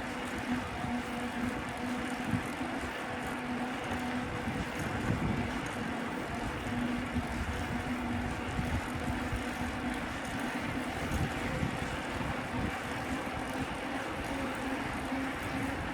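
Wind buffeting the microphone on a moving bicycle, over street and traffic noise, with a steady low hum that fades in and out.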